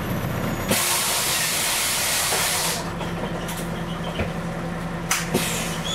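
Sudden loud hiss of compressed air from the Scania CN113CLL city bus's pneumatic system about a second in, easing after about two seconds, over the steady running of its Scania DSC 11 diesel engine. A couple of sharp clicks come near the end.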